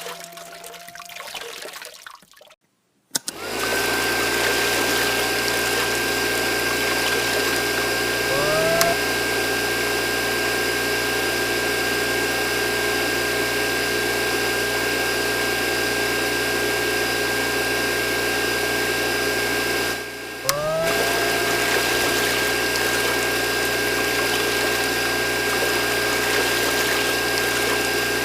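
Small electric water pump running steadily with water flowing, starting about three seconds in after a moment of silence. A short rising whine comes twice, the second just after a brief dropout about two-thirds of the way through.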